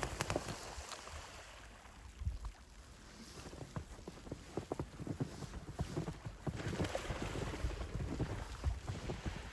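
Footsteps crunching through fresh snow, a dense run of irregular crackles that eases off for a couple of seconds about two seconds in and then picks up again.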